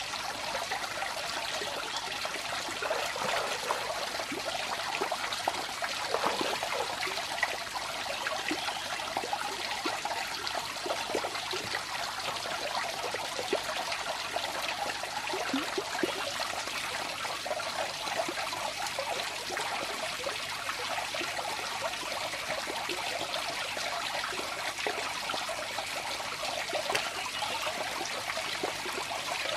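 Water running and trickling steadily, a continuous babble of many small splashes with no pauses.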